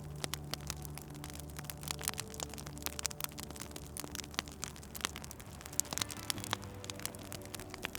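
Wood fire crackling with many small irregular pops and snaps, over soft music with long held low notes.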